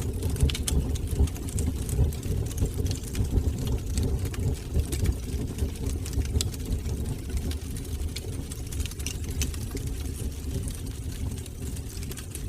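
Fire burning in a fireplace: a steady low rumble of the flames with frequent sharp crackles and pops scattered through it.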